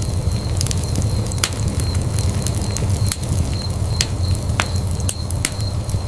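Fire burning in a fireplace: a steady low rumble of flames under irregular sharp crackles and pops, a couple or more every second.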